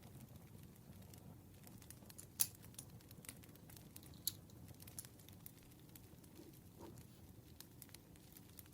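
Campfire crackling: scattered small pops and snaps over a low, steady rumble of burning wood, with two sharper pops about two and a half and four and a half seconds in.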